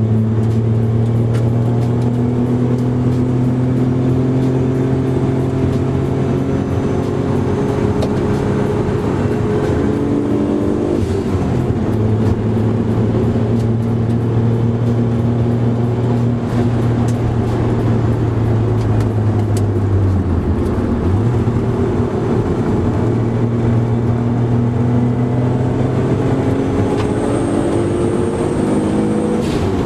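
Car engine heard from inside the cabin while being driven hard on a race circuit, its pitch climbing through each gear and dropping sharply at gear changes about eleven and twenty seconds in.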